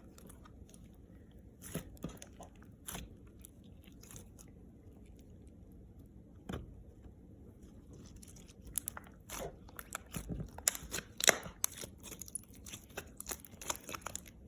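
Hands kneading and mixing a stiff slime with small charms mixed in: scattered crackling clicks and squishes, sparse at first and coming thicker after about halfway.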